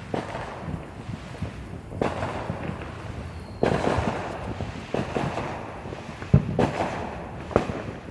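Neighbourhood fireworks and firecrackers going off at a distance: irregular pops and bangs, each followed by an echoing tail. The loudest bang comes about six seconds in.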